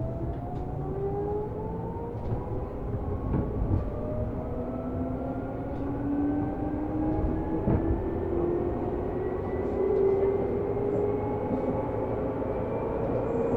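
Seibu New 2000 series electric commuter train running and picking up speed: its traction motor and gear whine climb steadily in pitch over a low rolling rumble, with a couple of sharp wheel knocks on the rails.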